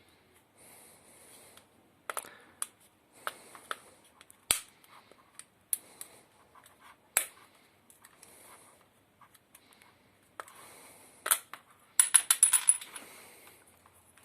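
Hands working on the parts of a Vitek VT-1465 blender: scattered sharp clicks and knocks with soft scraping between them, then a quick rattling run of clicks about twelve seconds in.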